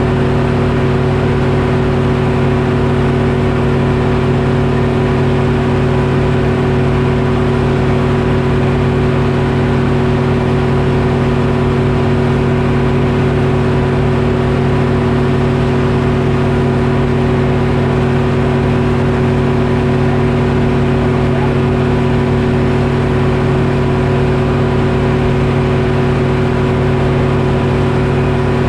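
Detroit Diesel engine powering a Frick sawmill, running at a steady speed with an unchanging drone.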